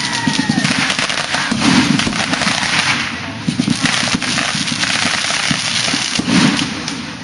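Fireworks going off in a dense, continuous crackle of rapid pops and bangs, with heavier clusters about two seconds in and again near the end.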